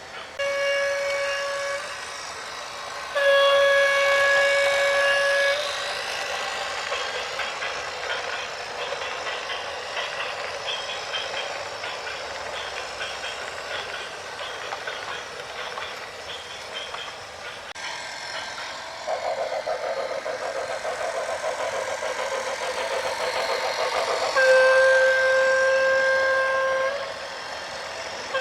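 A vehicle horn sounds three long, single-pitched blasts, the first short and the last two each about two seconds or more, over a continuous rumbling, rattling traffic or machinery noise.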